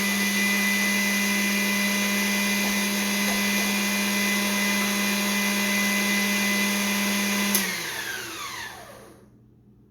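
Electric mixer motor running at a steady speed while mixing a ground venison mixture, then switched off with a click about seven and a half seconds in, spinning down with a falling whine until it stops.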